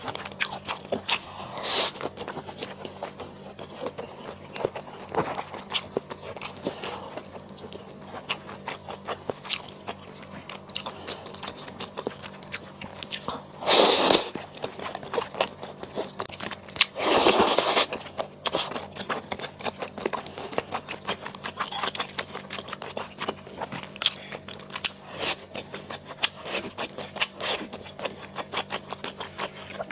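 Close-miked chewing and crunching while eating mala xiang guo: a steady run of small crisp crunches and mouth clicks, with two louder, longer crunching bursts about halfway through.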